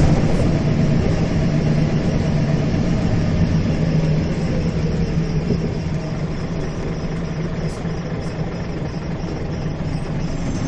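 Scania single-deck bus running on the road: engine and road noise with a steady low hum that weakens about halfway through, along with a faint falling whine, as the bus eases off.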